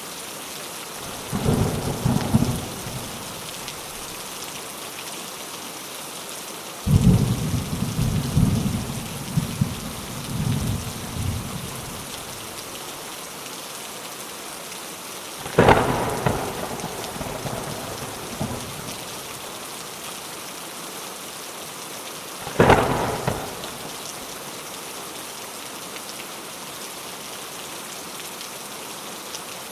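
Steady rain with repeated thunder: rolling rumbles about a second in and from about seven to twelve seconds, and two sharp cracks of thunder at about fifteen and twenty-two seconds, each dying away over a second or two.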